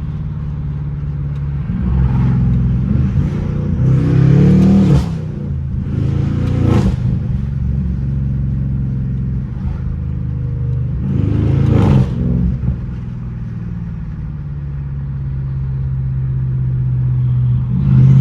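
Straight-piped, catless BMW 550i twin-turbo V8 exhaust heard from inside the car, droning at a steady pace and twice revving up hard under acceleration, about two and eleven seconds in, with sharp cracks as each pull tops out.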